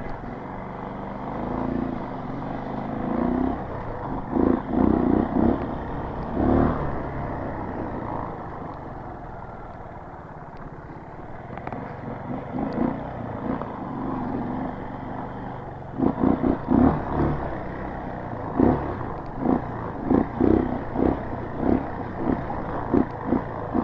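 Dirt bike engine running along a narrow trail, its note rising and falling with the throttle. Over the last third it gives a quick run of short revs, about two a second, as the bike crosses a series of whoop-de-doos.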